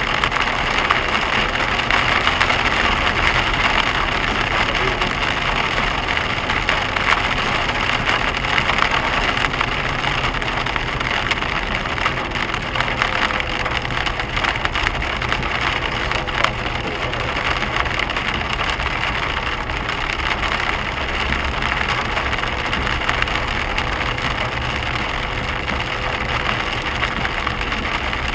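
Hail drumming steadily on a car's roof and windscreen, heard from inside the moving car: a dense patter of countless tiny hard hits over the low rumble of the car.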